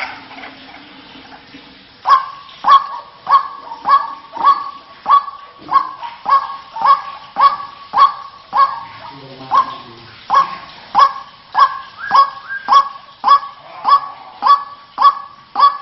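White-breasted waterhen calling: starting about two seconds in, a fast, even run of loud repeated calls at nearly two a second.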